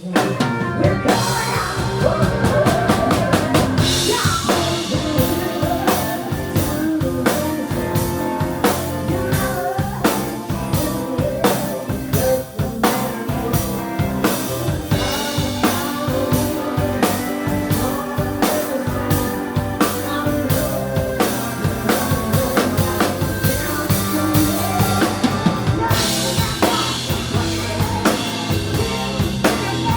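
Live rock band playing loudly with a full drum kit, a woman's lead vocal coming in and out over the band.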